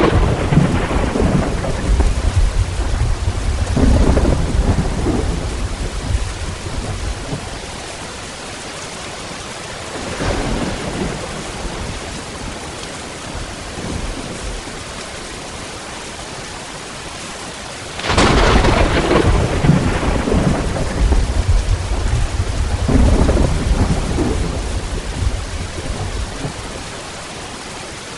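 Thunderstorm: steady rain with rolling thunder. Long rumbles fill the first several seconds and a fainter one follows about ten seconds in. A sudden loud thunderclap comes about eighteen seconds in and rolls on for several seconds before fading back to the rain.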